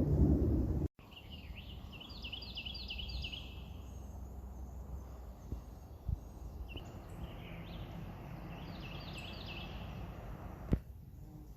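A songbird singing three runs of quick, repeated up-and-down chirping notes over a steady low outdoor rumble. A loud low noise cuts off abruptly about a second in, and a few small knocks come later.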